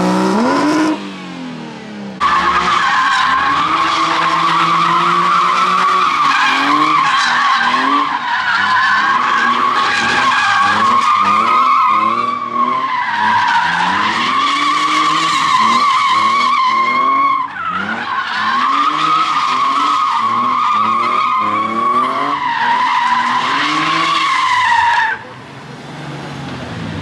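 Car at full power spinning its tyres in a long burnout or drift: a continuous, wavering tyre squeal over an engine revving up and dropping back again and again. The squeal breaks off briefly about two-thirds of the way in, picks up again, and stops a couple of seconds before the end.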